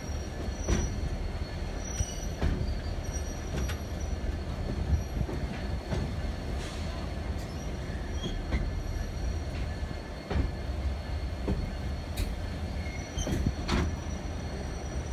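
Passenger train rolling along the track, heard from aboard at a car window: a steady low rumble of the running gear with irregular sharp clicks and knocks from the wheels and couplings, and a faint high wheel squeal.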